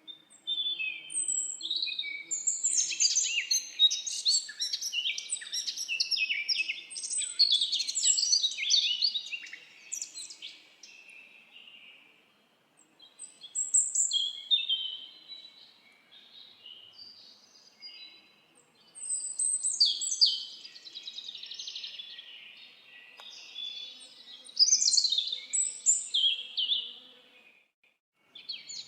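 Several songbirds singing together, a dense chorus of quick high chirps and trills. It thins out to a few scattered calls in the middle, then builds again.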